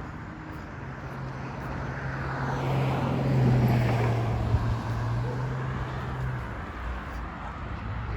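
A motor vehicle passing by: a steady low engine hum with a rush of noise that swells to a peak about three and a half seconds in, then fades.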